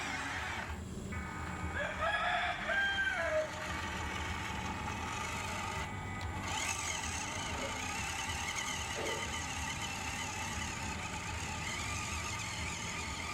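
A rooster crows once, about two seconds in, a single call that bends in pitch, over a steady background hum. From about halfway, a faint wavering high whine runs underneath.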